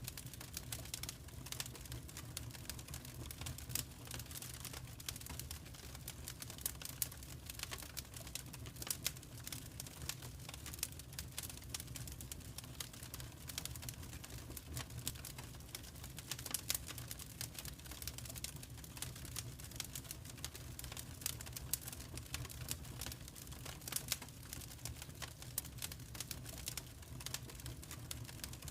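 Wood fire in a fireplace crackling, with irregular sharp pops and snaps over a low, steady rumble of the flames.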